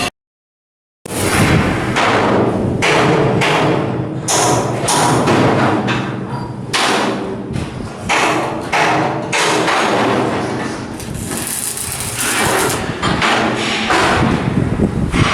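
Repeated hammer blows on steel, irregular and about two or three a second, each ringing out, over a steady machinery hum; the sound starts about a second in after a brief silence.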